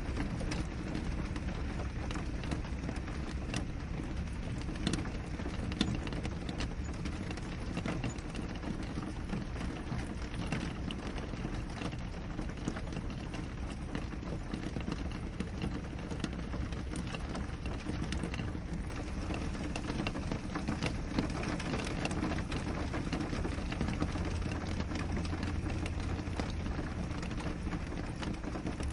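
Steady rain pattering on a window pane: many small drop ticks over an even hiss, with a deep, steady rumble underneath.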